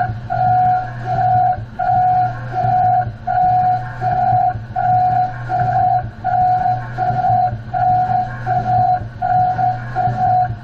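Grinding machinery running: a steady low hum under a whining tone that pulses on and off about twice a second.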